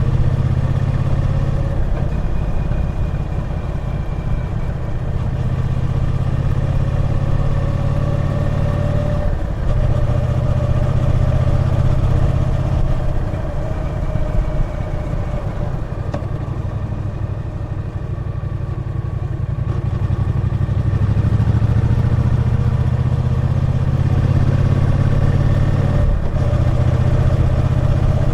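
Triumph Bonneville T120 parallel-twin engine running under way, a steady low exhaust note with two brief dips, about a third of the way in and near the end.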